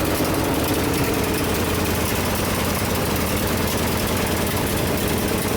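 1976 Ford F-600 dump truck's carbureted engine idling steadily but running rough, close to dying, a condition the owner and his helper put down to a vacuum leak.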